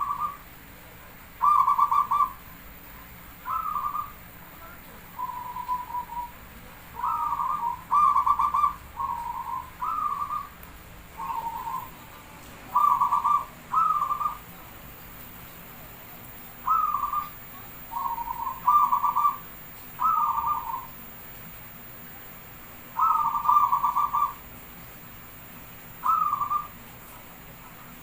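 Zebra dove (perkutut) cooing: short, rapidly trembling coo notes repeated in quick clusters, with pauses of a few seconds between clusters.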